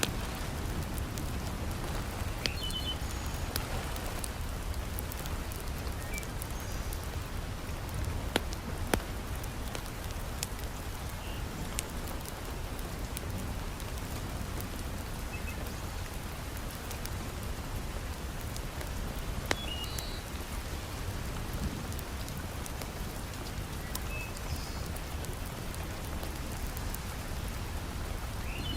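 Heavy rain falling steadily, with a few sharp pops and clicks standing out now and then.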